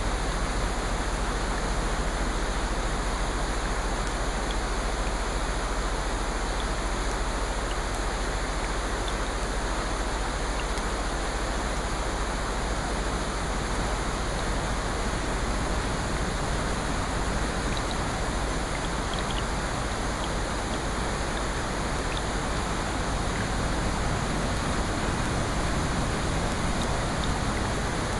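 Steady, even rushing of water, with a few faint scattered ticks and no swells or pauses.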